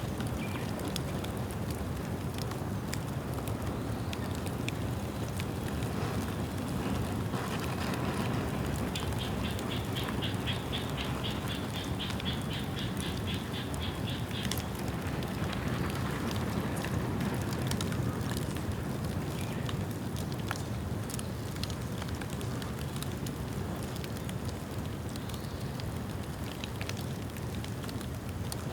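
Bonfire of bamboo burning with a steady low rush and frequent sharp crackles and pops. From about nine seconds to fourteen seconds, a rapid repeated high chirping, about four notes a second, sounds over the fire.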